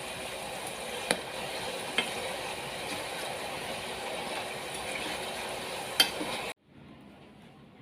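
Potato fries deep-frying in hot oil, sizzling steadily, with three sharp clinks of a utensil against the pan. The sizzling cuts off abruptly about six and a half seconds in, leaving only faint clicks.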